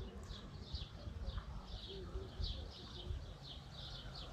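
A small bird chirping over and over, about three short high chirps a second, over a low steady rumble.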